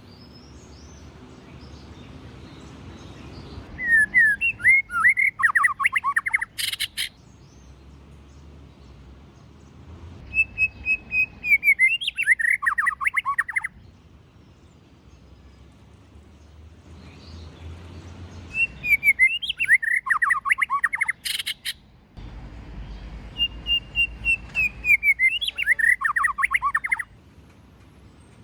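White-rumped shama singing four separate phrases. Each opens with clear falling whistles and breaks into a fast run of notes, and a sharp click ends two of them.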